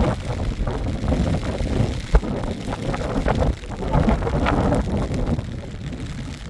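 Wind buffeting the microphone, an uneven rumble with scattered knocks and one sharp knock about two seconds in.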